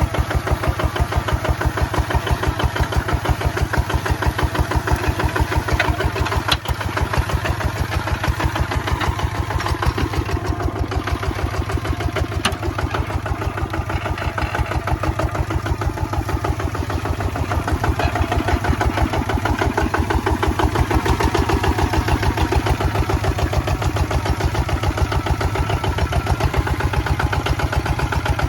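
Kubota ZT155 single-cylinder diesel walking-tractor engine running steadily, with a rapid, even firing beat, as it pulls a plough.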